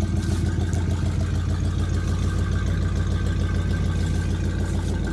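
1988 Chevy R30's 350 V8 running steadily at a fast idle, still not idled down after its cold start.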